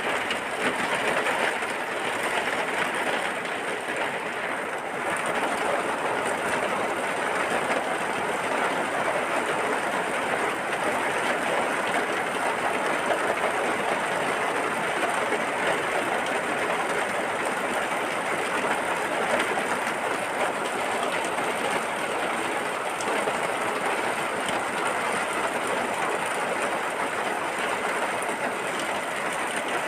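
Steady heavy rain, a dense even hiss with no change in strength.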